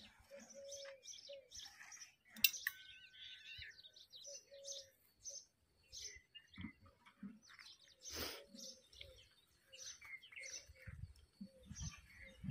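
Birds chirping faintly: many short, high calls overlapping, with a lower short call repeating about once a second. A single sharp click comes about two and a half seconds in.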